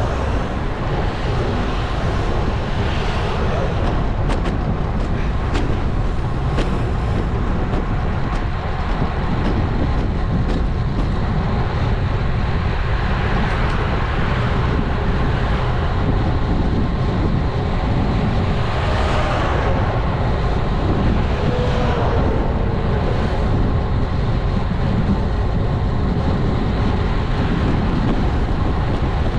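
Steady wind rush on a GoPro action camera's microphone while riding a road bike, with road noise underneath. A few light clicks come about five seconds in, and a faint tone slides downward around twenty seconds in.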